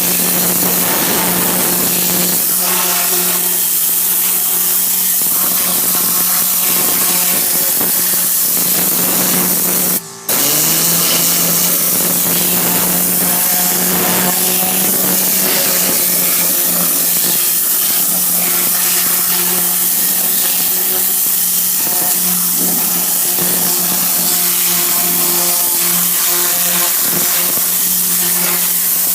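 Tornador-style compressed-air cleaning gun blowing steadily: a loud rushing hiss with a steady hum under it. About ten seconds in it cuts off for an instant, then starts again with the hum rising back up to pitch.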